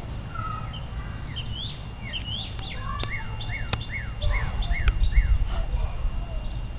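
Songbirds chirping, with a run of about six quick, repeated rise-and-fall chirps a little past the middle. Under them is a low rumble that swells at the same time.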